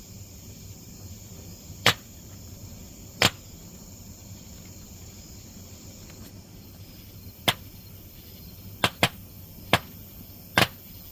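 Sharp single pops at irregular intervals, seven in all, including one quick pair, from a laser disc player's circuit board burning in a burn barrel. The owner takes them for its capacitors bursting in the heat.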